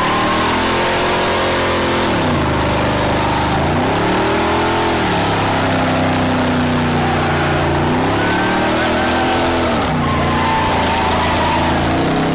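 Classic Chevrolet Impala's engine revving hard through a smoky burnout, its pitch dropping and climbing again three times, over a steady hiss from the spinning rear tyres.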